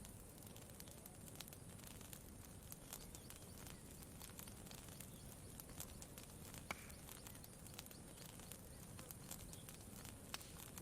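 Campfire crackling faintly: scattered sharp pops and snaps, one or two a second, over a low steady rumble.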